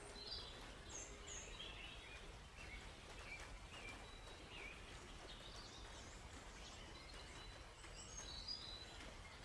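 Several small songbirds chirping and trilling at once in short, scattered calls, faint, over a steady low background hush.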